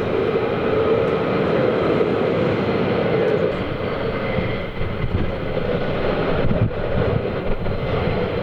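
Military jet aircraft engines running, a steady loud rushing noise with a brief dip about two-thirds of the way through.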